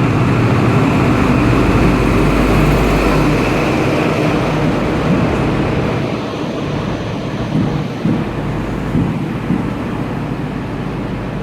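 Class 43 HST power car's diesel engine running as the train pulls slowly into the platform, easing off about halfway through. A few short knocks from the coaches come in the second half.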